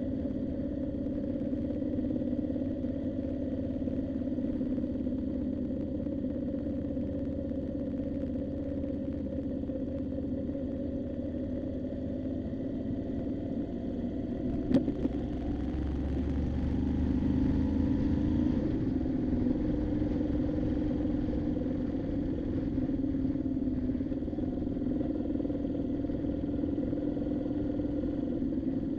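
Moto Guzzi V7's V-twin engine running steadily under way. A single sharp click comes about halfway through, then the engine pitch rises for about three seconds as it accelerates, and it settles to a steady run again.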